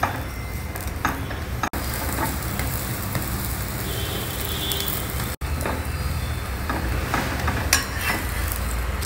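Paratha sizzling on a hot iron tawa, with a flat steel spatula pressing and scraping across it and a few short clicks of metal on the pan. A low steady rumble sits under the sizzle.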